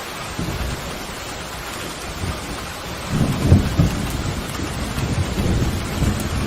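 Steady heavy rain hissing, with rolling thunder rumbling low underneath that swells up about three seconds in and keeps rumbling.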